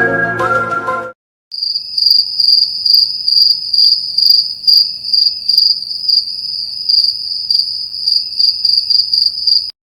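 Crickets chirping: a steady high-pitched trill that pulses over and over, starting after a short gap about a second and a half in. Before the gap, the tail end of a short music sting fades out.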